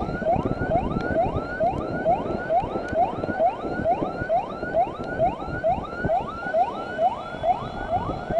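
Electronic escort siren on a motorcycle in fast yelp: a rising whoop that repeats about three times a second. Under it runs a steady rumble of wind and road noise.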